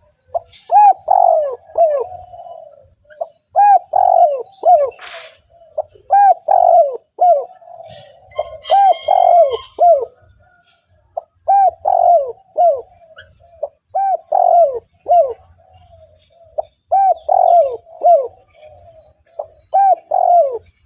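Spotted dove (tekukur) cooing repeatedly: phrases of three or four low, arching coos, one every two to three seconds, the call used as a lure for wild doves.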